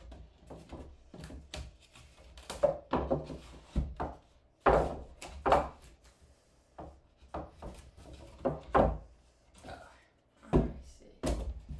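Irregular wooden knocks, clunks and thumps as plywood pieces are handled and fitted into place, a dozen or so strikes with a few loud ones.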